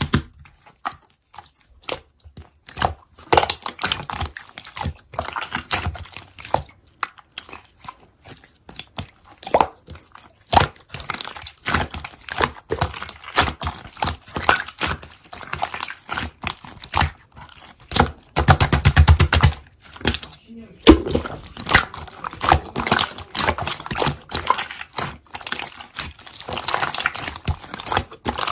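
Slime being squished and worked by hand, a dense irregular run of crackling and popping clicks. About two-thirds of the way in there is a brief low rumble lasting about a second.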